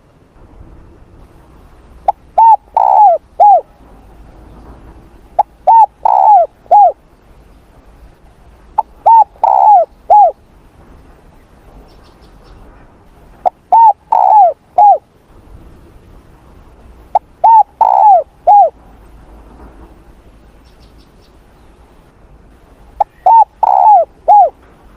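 Spotted dove cooing: six phrases a few seconds apart, each of three notes with the middle note the longest.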